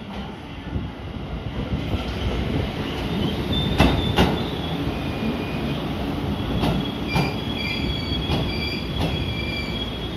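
JR West 221 series electric train running in alongside the platform: a low rumble, sharp clacks of the wheels over rail joints, and a high wheel squeal that comes and goes in the second half.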